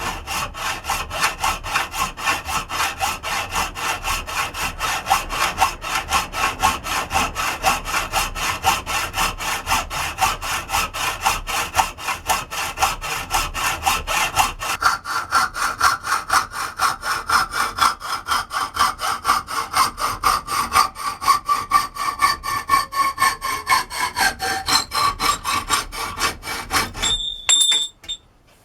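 Hand hacksaw cutting through metal box section in quick, even back-and-forth strokes, the metal ringing with each stroke. The ring changes pitch about halfway through, and the sawing stops shortly before the end, followed by a couple of light clinks.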